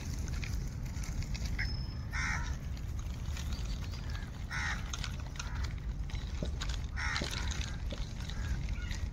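A bird calling three times, about two and a half seconds apart, over a steady low rumble.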